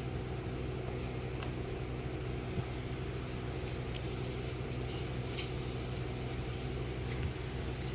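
Steady low mechanical hum, with a few faint light clicks and taps.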